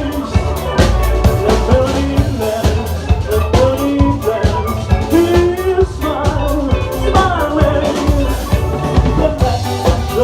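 Live rock band playing loudly, with drum kit, heavy bass and a bending melodic lead line over them.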